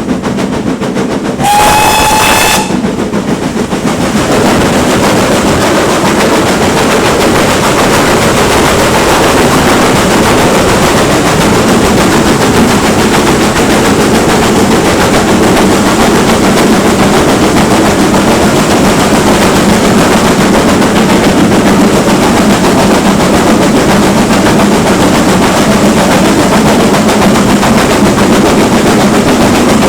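GWR Manor-class steam locomotive sounds a short whistle about two seconds in, then works hard with loud, rapid, barking exhaust beats.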